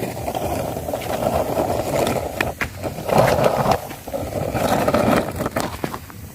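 Plastic toy car rolling and scraping over rough ground, with rattling clicks and swells as it is pushed back and forth.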